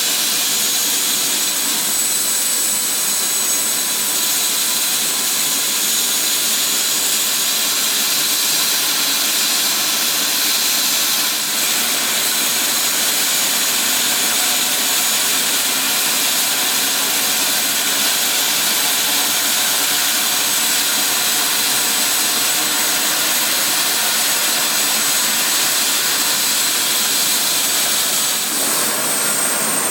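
Twin Turbomeca Arriel 1E2 turboshaft engines of a Eurocopter EC145 running steadily: a high turbine whine over a loud hiss. Near the end the whine steps up slightly in pitch.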